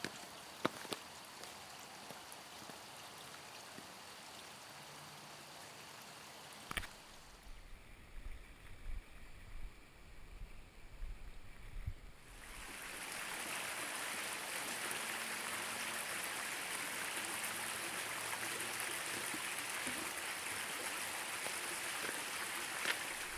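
Steady rushing of running water that sets in about halfway through and stays even. Before it there is a fainter hiss with a few scattered knocks and some low gusty rumbling.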